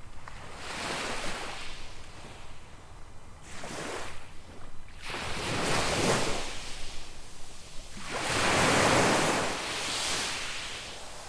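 Small waves breaking and washing up on a sandy beach: four surges of surf that each swell and fade, the loudest about eight to ten seconds in.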